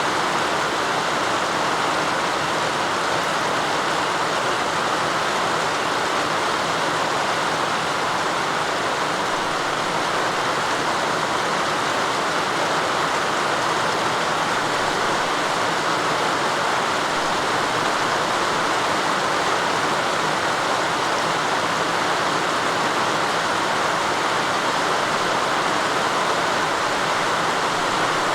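Rain falling steadily: an even, rushing hiss with no single drops or knocks standing out.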